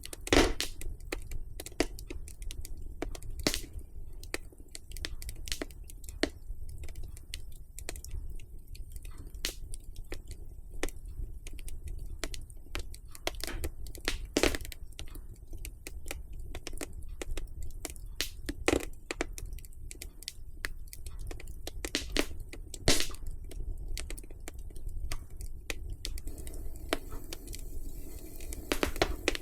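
Wood fire in a fireplace crackling: a run of irregular small clicks with a few louder pops, over a low rumble, and a soft hiss that swells near the end.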